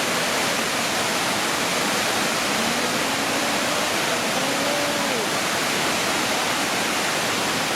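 Waterfall: a steady, even rush of falling water, with faint distant voices in the middle.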